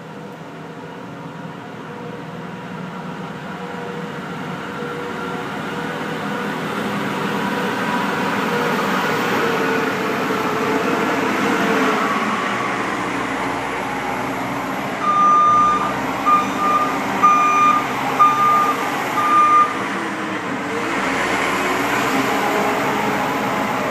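A vehicle engine running and growing louder over the first several seconds, its pitch dipping slowly now and then. Past the middle comes a run of short, high, repeated beeps lasting about four seconds.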